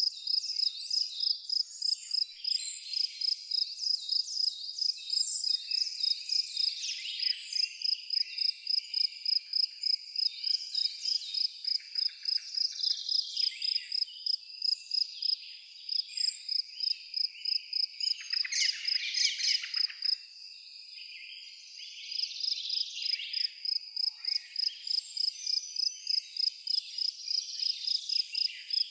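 An insect chirping in a steady, high-pitched pulse, about three chirps a second, with birds calling and singing over it. The chirping stops for about two seconds around two-thirds of the way through, just after a burst of louder bird calls.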